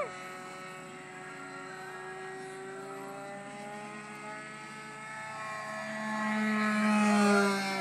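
Radio-controlled model airplane's motor and propeller droning in flight, its pitch drifting slightly. It grows louder from a little past five seconds in and drops off near the end as the plane passes closer.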